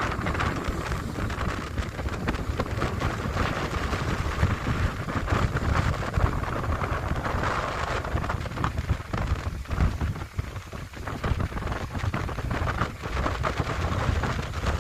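Strong sea wind buffeting the microphone over breaking sea waves: a continuous roar with a heavy low rumble, easing briefly a little past the middle.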